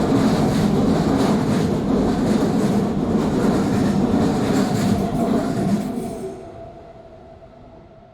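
Train passing close by at speed, its wheels clattering rhythmically over the rails. The noise falls away quickly as the end of the train passes about six seconds in.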